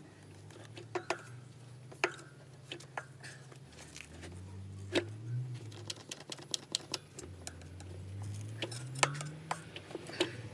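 Hand tools and metal parts being handled: scattered sharp clicks and taps, more of them near the end, over a low droning hum that rises in pitch about three quarters of the way through.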